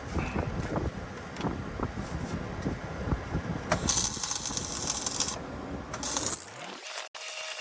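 Wind buffeting the microphone with scattered clicks and knocks. About four seconds in, a MIG welder strikes a short stitch weld, an arc crackle and hiss lasting about a second and a half. Shortly before the end the sound cuts to a quieter, steady hum.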